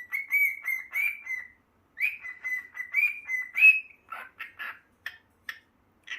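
Cockatiel whistling a mimicked tune: two phrases of quick, clear notes held near one pitch, followed by a few short, raspy chirps.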